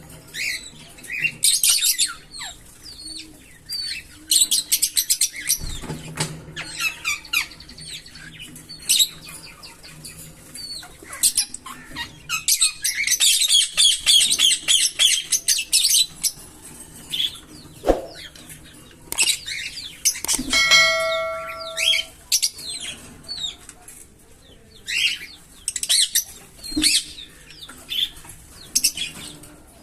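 Pair of green Fischer's lovebirds chirping in short, high calls, with a long rapid run of chirps in the middle that makes up their 'giggle' song. About twenty seconds in, a steady ringing tone holds for about a second and a half.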